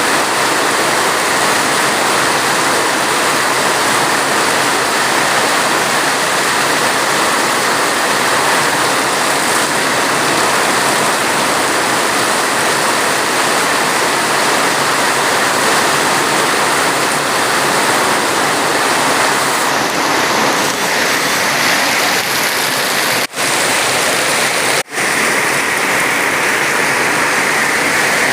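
Steady rain, a dense even hiss of falling water, with two split-second gaps in the sound near the end.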